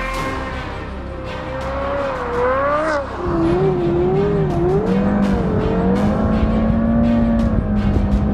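Porsche Carrera GT's V10 on a Kreissieg exhaust, revving hard with tyres squealing as the car drifts; the pitch swings up and down, with music underneath.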